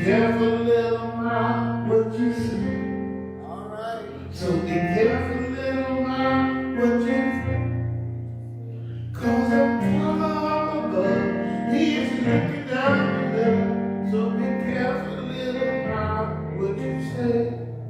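Singing with acoustic guitar accompaniment, a simple church song with held guitar chords under the voices.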